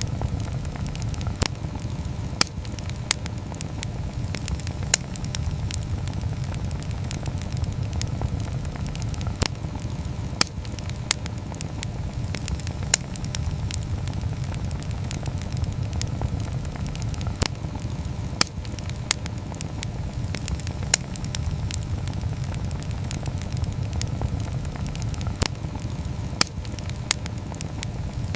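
Campfire burning, with a steady low rumble under frequent sharp, irregular crackles and pops.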